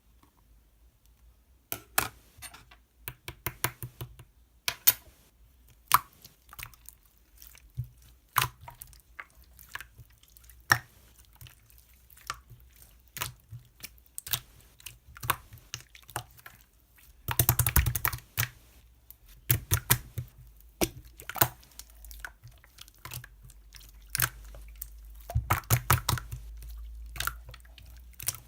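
Slime being squeezed and poked by hand, giving a string of irregular sharp clicks and pops. There are denser bursts of crackling a little past halfway and again near the end.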